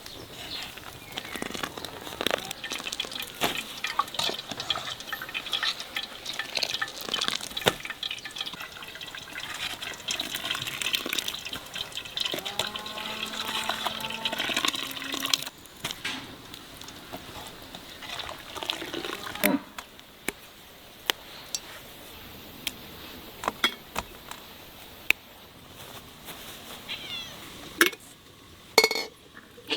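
Water running and splashing, with scattered clicks and knocks; a short pitched call sounds about halfway through.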